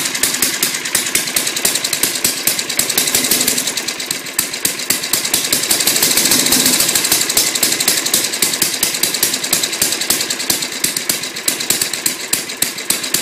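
Old lawnmower's small engine running with a rapid, even firing beat; it grows louder about six seconds in, then settles back. The owners take its running for a sign of getting too much fuel or a still-dirty carburetor.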